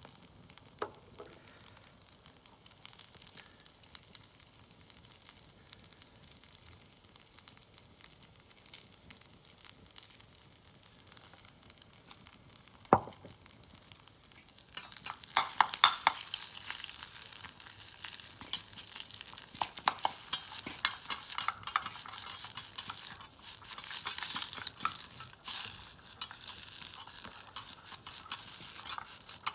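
Stir-frying in a wok. It is mostly quiet at first, with a few clicks and one sharp knock about 13 seconds in. From about halfway, food sizzles loudly in the hot wok while a utensil stirs and clinks against the pan.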